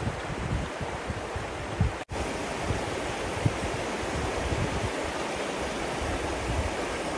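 Steady rushing wash of water, with low gusty rumbles of wind on the microphone underneath. The sound cuts out for an instant about two seconds in, at an edit, then carries on unchanged.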